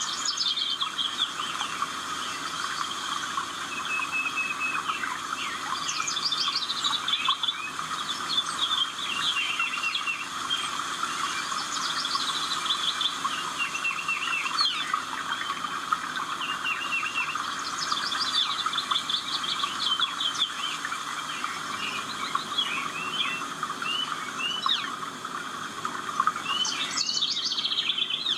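Birds singing in a chorus: many small birds chirping continuously, while one bird repeats a quick run of high notes stepping downward every several seconds.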